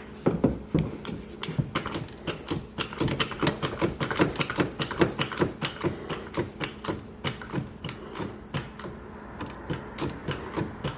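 Fast, uneven clicking and ticking from a hydraulic push ram being pumped up to push out crumpled spare-tire-well sheet metal.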